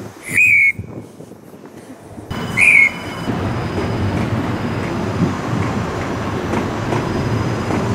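Two short, high train-horn toots, one near the start and another about two and a half seconds in. Then the steady running rumble of an approaching Meitetsu Panorama Super electric train on the rails.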